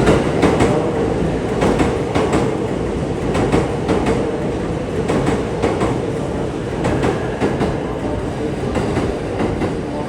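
A train running at close range, a steady rumble with irregular clicking of the wheels over rail joints.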